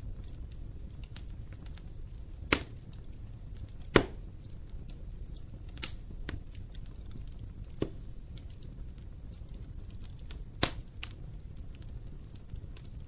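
Burning wood crackling in an open fireplace: a constant fine ticking of small crackles over a low steady rumble, with five sharper pops, the loudest about four seconds in.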